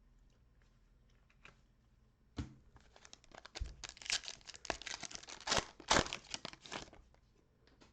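A foil trading-card pack wrapper being torn open and crinkled: a sharp rip about two seconds in, then a few seconds of dense crackling that stops about a second before the end.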